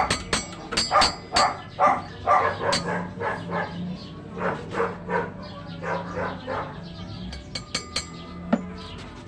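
A dog barking over and over, about two barks a second, stopping after about seven seconds, with a few sharp knocks near the end and a low steady hum underneath.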